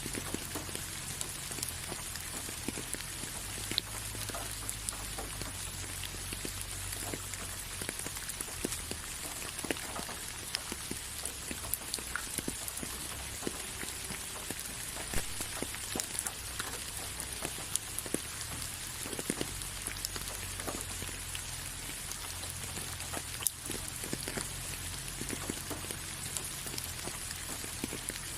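Steady rain: an even hiss with many separate drops striking close by.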